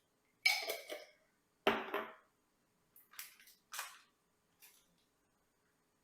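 A handful of short clatters and knocks from objects being handled and set down, five in six seconds; the second, about two seconds in, has a dull thud under it.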